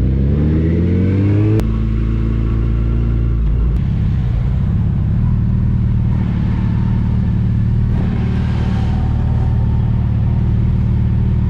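Touring motorcycle engine under way: the revs climb for about a second and a half, drop sharply at a gear change, then hold a steady cruising note.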